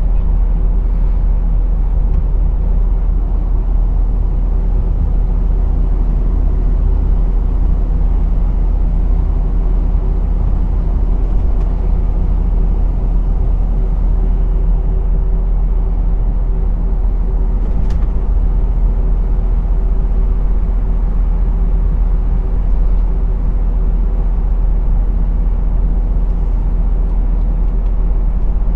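A lorry's diesel engine and road noise while driving, a steady low drone.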